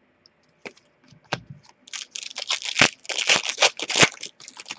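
Trading cards being handled: a few scattered clicks, then from about two seconds in a run of quick papery rustles and flicks as the cards are moved against one another.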